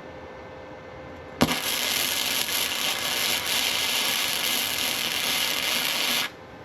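Wire-feed welder's arc striking with a sharp pop about a second and a half in, then crackling steadily for about five seconds while a weld is laid, and cutting off suddenly when the trigger is released.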